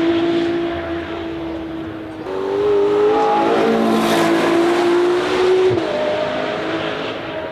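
Ferrari sports car engine running as the car drives past. Its note steps up and gets louder about two seconds in, drops back just before six seconds, then fades as the car moves away.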